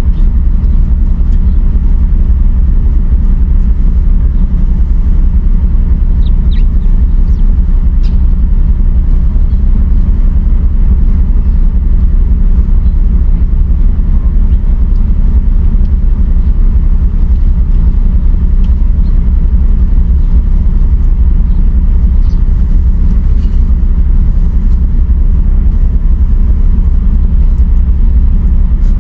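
A loud, steady low rumble that neither rises nor falls.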